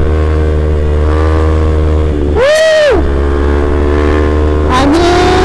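Kawasaki Z250's parallel-twin engine with an aftermarket Prospeed exhaust running at steady speed, under a steady low rumble of wind on the microphone. Engine pitch briefly rises and falls about two and a half seconds in, and steps up again near the end.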